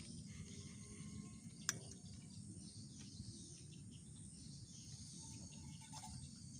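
Faint forest ambience: insects and a few faint bird calls over a low steady rumble, with one sharp click nearly two seconds in.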